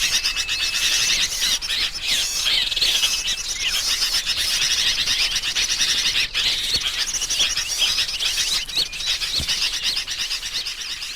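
A dense, unbroken chorus of chirping and trilling small-bird calls: a bird-trapping lure recording of sooty-headed bulbuls (kutilang) mixed with other small songbirds. A thin, steady high whistle is held twice in the first few seconds.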